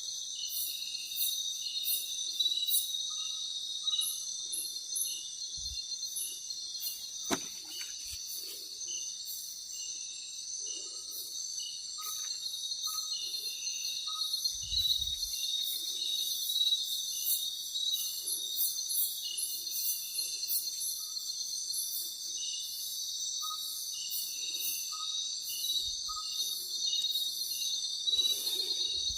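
Night insect chorus in tropical forest: a steady high buzzing with a fast pulsing trill over it and a chirp repeated every second or so. A few soft knocks sound now and then.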